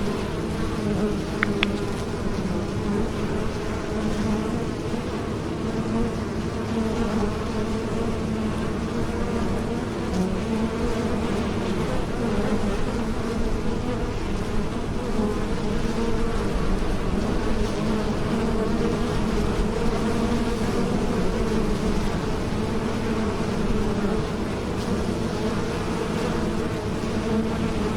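Bees flying, their wings making a steady, continuous buzz whose pitch wavers slightly as several bees overlap.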